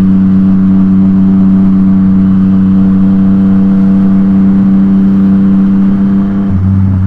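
Yamaha MT-09's three-cylinder engine through an Akrapovic exhaust, running steadily at a constant note while riding. About six and a half seconds in, the note changes and deepens.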